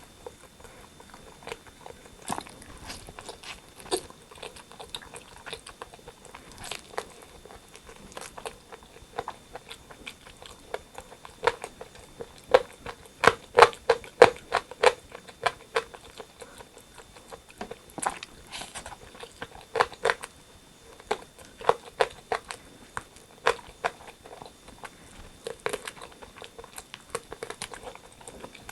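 Close-up eating sounds: biting and chewing crispy rotisserie chicken skin and meat, with wet smacking and crunchy crackles. The loudest run of crunching comes about halfway through.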